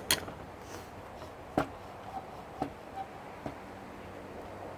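A few sharp knocks and clicks of dishwasher parts being handled while it is taken apart for scrap: two quick clacks at the start, then single knocks about a second apart.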